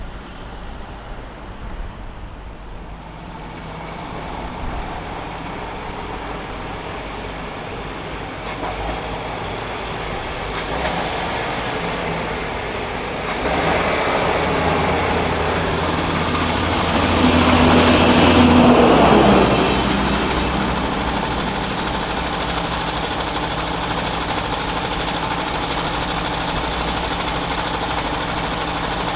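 A train approaching and passing over a railway level crossing, growing louder to a peak about two thirds of the way through, then settling into a steady rumble.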